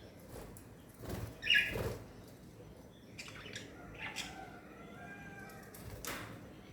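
Small pet birds chirping, with one louder chirp about a second and a half in and fainter chirps later, mixed with a few short rustling noises.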